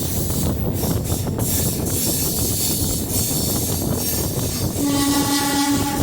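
Diesel multiple unit train running along the rails with a steady rumble and rattling clicks; about five seconds in, a train horn sounds one steady held note.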